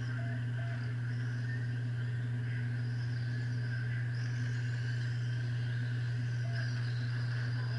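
Electric RC spec trucks racing around a track, their motors making high whines that rise and fall as they speed up and slow down. Under them runs a loud, steady low hum.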